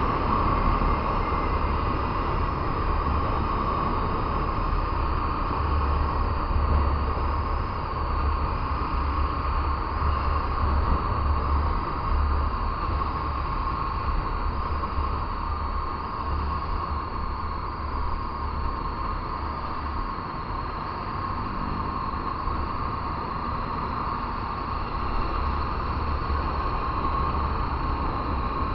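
Motorcycle riding through city traffic: steady wind rush buffeting the microphone, with engine and road noise underneath.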